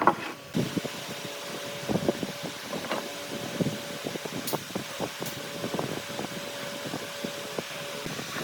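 Light, irregular taps and knocks of hand tools working wood over a steady background hum.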